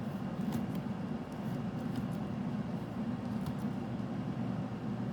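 Steady low background hum with a faint even hiss, like a room air conditioner or fan, broken by a few faint soft ticks.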